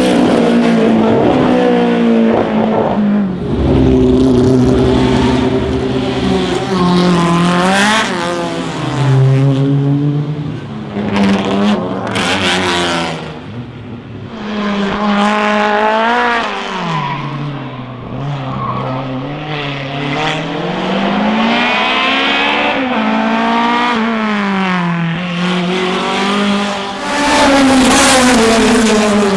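Classic racing car engines revving hard under acceleration, the pitch repeatedly climbing and then dropping sharply at gear changes.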